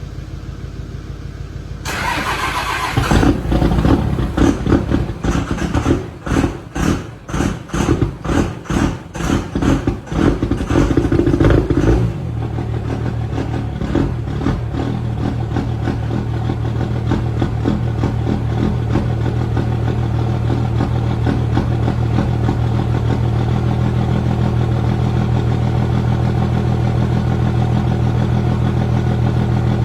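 A motor vehicle engine starting from cold: it starts up about two to three seconds in and is revved in a series of short throttle blips. From about twelve seconds in it settles into a steady idle.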